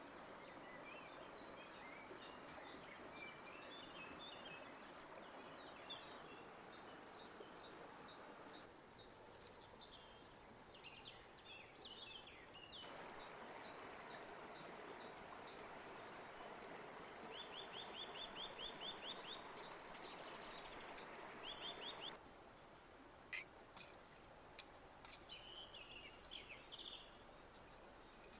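Birds chirping and singing, with a fast trill partway through, over a soft steady hiss that drops out and returns a few times. Two sharp clicks come near the end.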